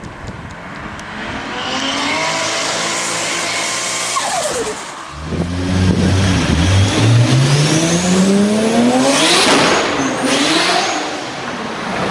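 A sports car's engine revving as it accelerates up to and past, its pitch dropping sharply as it goes by about four seconds in. Then, after a cut, a red Toyota Supra's engine pulls hard through a long acceleration, climbing steadily in pitch before easing off near the end.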